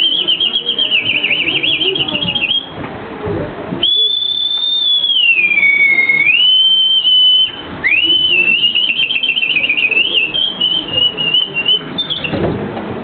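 A man whistling an imitation of birdsong: fast warbling trills, then a long held note that slides down and back up, then more warbling trills.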